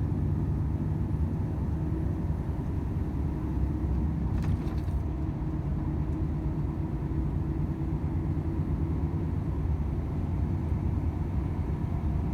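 Volvo FH 500 truck's 13-litre inline-six diesel engine running at a steady pitch while driving, with a constant low road rumble.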